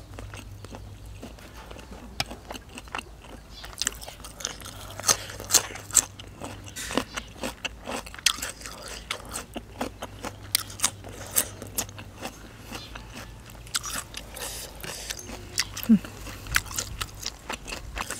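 Close-miked chewing of a crisp raw vegetable: a run of sharp crunches and wet mouth sounds, busiest from about four seconds in until around fourteen seconds.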